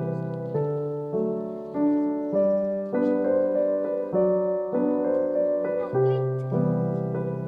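Background piano music, a slow, even run of sustained chords with a new chord struck about every half second.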